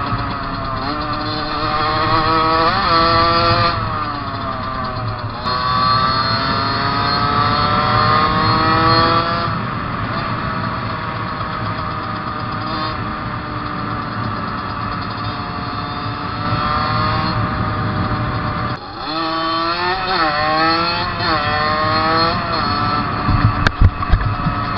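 Fantic 50cc two-stroke motorcycle engine pulling at full throttle, its pitch climbing through each gear and dropping sharply at several gear changes. Near the end the revs rise and fall in quick blips, with a few sharp knocks.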